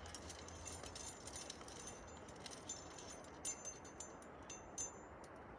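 Metal trad-climbing gear on a harness rack, carabiners and cams, clinking and jingling in irregular faint clicks as the climber moves, with a couple of louder chinks near the middle.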